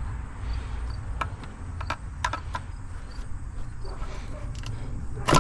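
Scattered light clicks and taps of hands and a tool working at an electrical connector on a throttle body, with a louder sharp click about five seconds in as the connector comes off.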